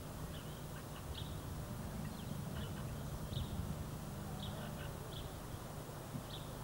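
Small birds chirping faintly in short, high notes, one every second or so, over a steady low rumble.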